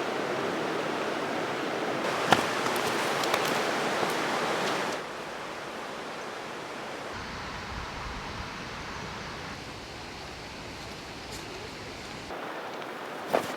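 Steady rushing of flowing river water, heard in several cut-together stretches that drop and change abruptly in level, with a sharp click about two seconds in.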